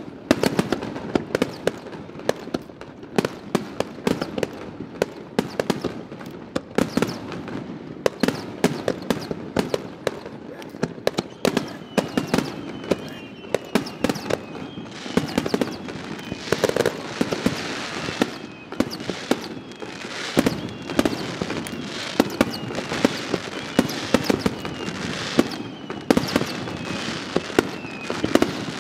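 Aerial firework shells bursting in rapid succession: a dense run of sharp bangs and crackles. Through the second half, short whistles repeat over the bangs.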